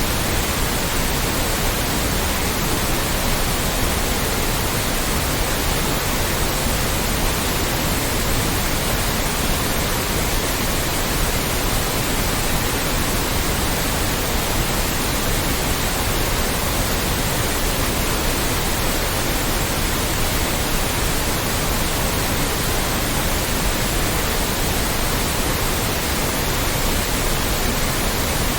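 Loud, steady white noise: an even hiss spread across all pitches, unchanging throughout.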